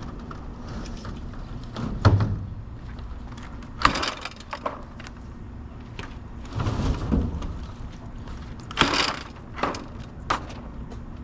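Soda cases and bottles being handled and thrown in: several knocks and clatters over a steady low hum, the loudest near the start and two-thirds of the way in.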